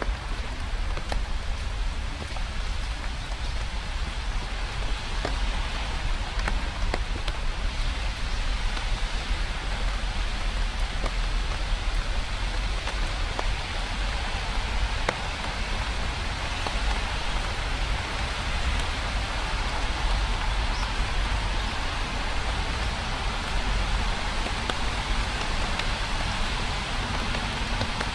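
Steady rain falling, with fine scattered drop ticks over a constant hiss and a low rumble beneath.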